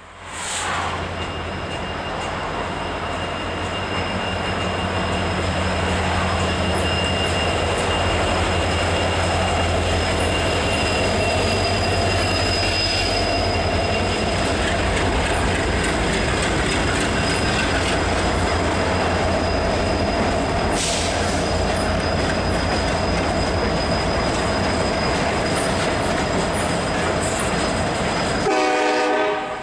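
Loaded coal train rolling past, with a steady low rumble, wheels clattering on the rails and a thin, steady, high-pitched wheel squeal. The sound drops off abruptly just before the end.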